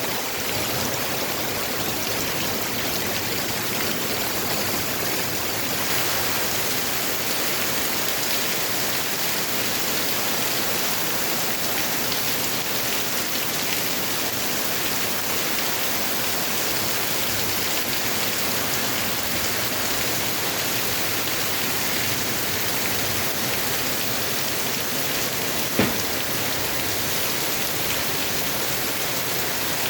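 Heavy rain pouring steadily, an even rushing hiss, with one sharp knock near the end.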